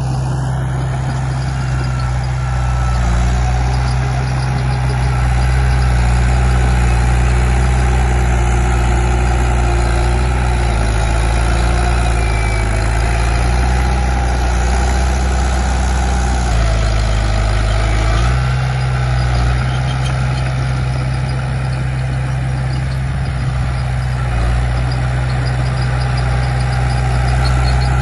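Komatsu D31P crawler bulldozer's diesel engine running steadily under work, briefly easing off in pitch partway through before picking back up, with faint high squeaks over it.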